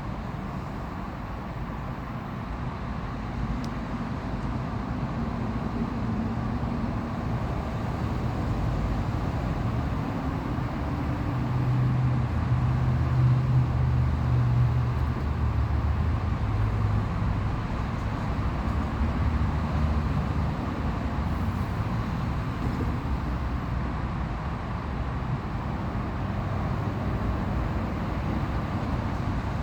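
Road traffic noise: a steady low rumble of passing vehicles, swelling about halfway through as a louder vehicle goes by, then settling again.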